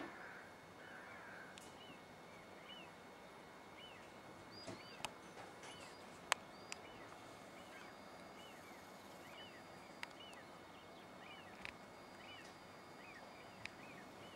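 A bird calling one short chirp over and over, about once a second, over a faint steady hiss, with a few sharp clicks here and there.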